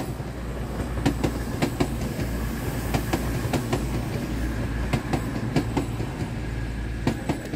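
CrossCountry Voyager diesel multiple unit running past: a steady low rumble with the rapid, irregular clickety-clack of its wheels over rail joints.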